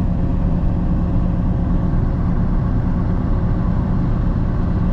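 Claas 695 self-propelled forage harvester running steadily while chopping corn for silage: a constant loud engine and machine drone with a steady low hum.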